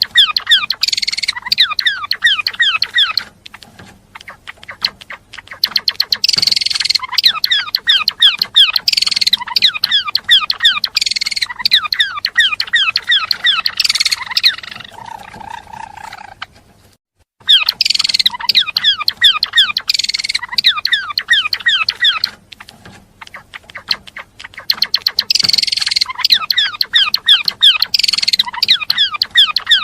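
Gelatik belong songbird singing loud, fast chattering song bouts of rapid down-sliding notes, with a short break about two-thirds of the way through.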